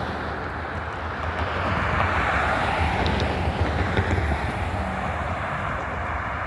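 Diesel freight locomotive approaching: a low engine rumble under a steady wash of noise, growing a little louder about two seconds in, with wind on the microphone.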